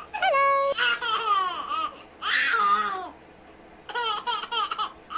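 A baby laughing and squealing in high-pitched bursts, with a pause about three seconds in, then a run of quick short giggles near the end.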